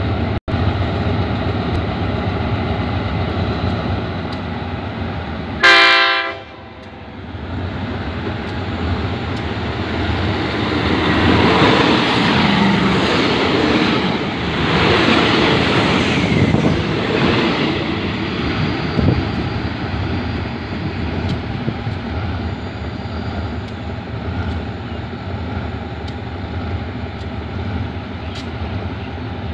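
A diesel locomotive running steadily, with one short train-horn blast about six seconds in. From about ten seconds in, a passenger train passes close by, its carriages and wheels rushing loudly for several seconds before fading out.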